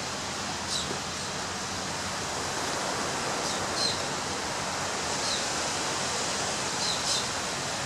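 Ocean surf breaking on a beach, a steady rushing wash. Short high chirps come every second or two over it, about four times.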